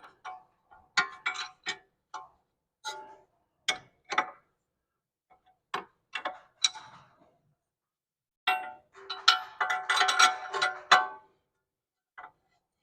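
Metal clanking and ringing of hand tools against steel front-suspension parts: scattered single clinks, then a quick flurry of clanks about three-quarters of the way through.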